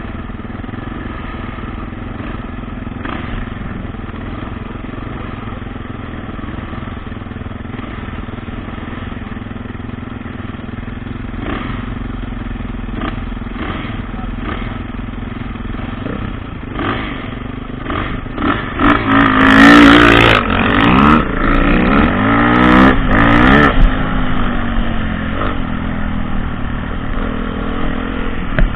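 Dirt bike engine running at a steady pitch, then revved hard several times about two-thirds of the way through, its pitch sweeping up and down, before settling back to a steadier run.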